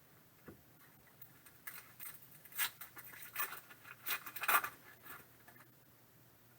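Trading cards and their pack being handled: a cluster of short rustles and scrapes, loudest about four and a half seconds in.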